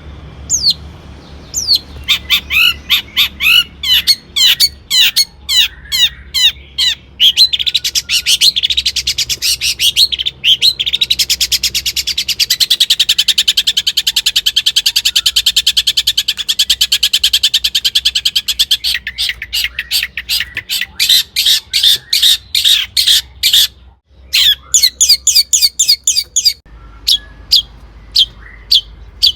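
Long-tailed shrike singing: loud, sharp high notes in quick succession, running into a long, very fast rattling trill about eight seconds in that lasts some ten seconds, then back to separate repeated notes, sparser near the end.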